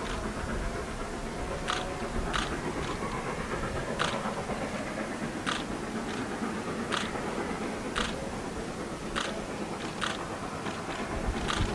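A train running on track: a steady rumble with sharp clicks about once a second.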